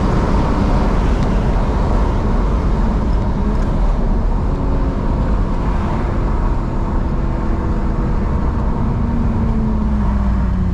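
BMW E46 driving along with steady engine drone and road rumble. The engine note drops a little near the end as the car slows. No exhaust pops are heard.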